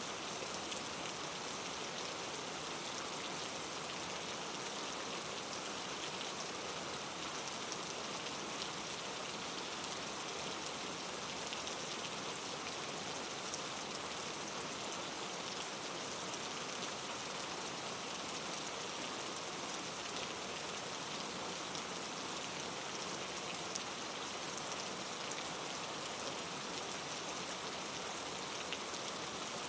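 Steady hiss of precipitation falling on a surface, with fine ticks of drops or pellets striking throughout.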